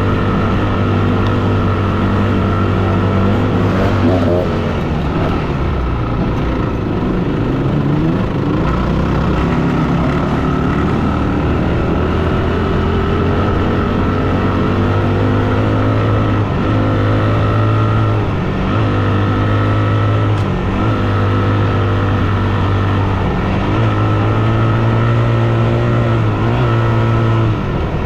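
Yamaha WR250F dirt bike's single-cylinder four-stroke engine running under way, with its revs climbing, then dipping and climbing again several times as the throttle comes off and back on.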